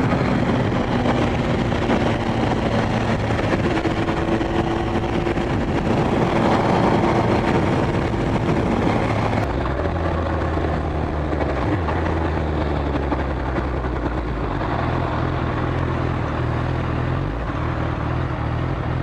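Motorcycle engine running steadily while riding, over road and wind noise. The engine note shifts abruptly about halfway through.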